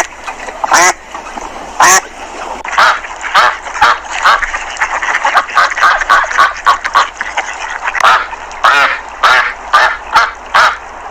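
Domestic ducks quacking: many short, repeated calls from several birds, coming thick and overlapping in the middle.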